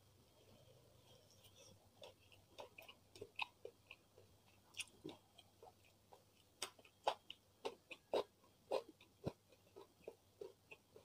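Close-up chewing of a mouthful of rice and beef rendang: irregular soft mouth clicks and smacks. They start a couple of seconds in and are loudest past the middle.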